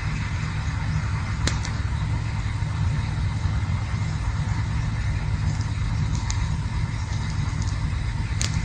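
Campfire burning: a steady low rumble with a few sharp crackles from the wood, about three in the stretch.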